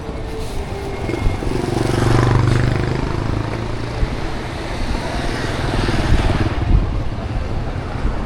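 A motorbike engine passes close by, its hum swelling about two seconds in and easing off, with street traffic running on behind it.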